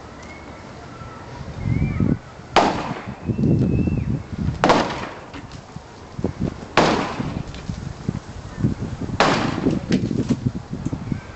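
Four sharp impacts about two seconds apart, each followed by low crunching and rattling: blows tearing down a wooden porch roof structure, with wood breaking and debris shifting.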